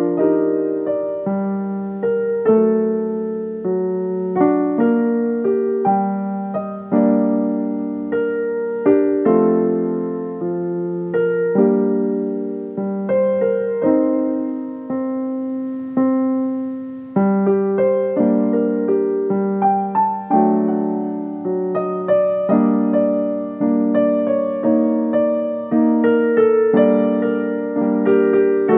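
Solo piano music: single notes and chords struck about once or twice a second, each ringing and fading before the next.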